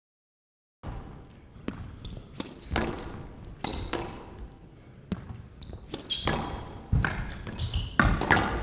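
Squash rally: the ball cracking off rackets and smacking against the court walls in an irregular string of sharp hits, starting after about a second of silence, in a large reverberant hall.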